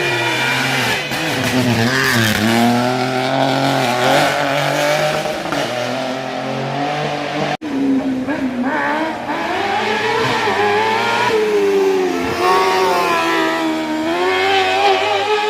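Competition car's engine revving hard through slalom chicanes, its pitch climbing and falling again and again as the driver accelerates and lifts. The sound cuts out abruptly for an instant about halfway through, then picks up again.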